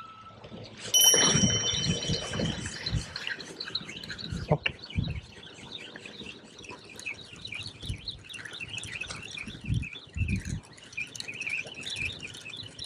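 Small birds chirping over and over, with a steady high whistle-like tone for a couple of seconds about a second in. Low rumbling thumps hit the microphone a few times.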